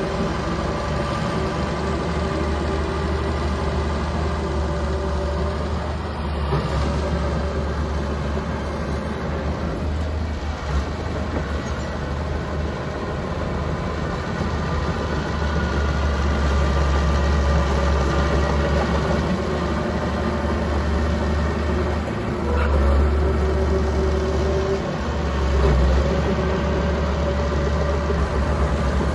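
Mini bulldozer's diesel engine running steadily, its note swelling and easing a few times as the load changes.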